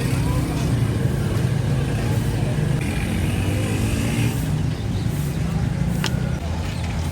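Motor vehicle engines running in street traffic, a steady low rumble, with voices behind and a sharp click about six seconds in.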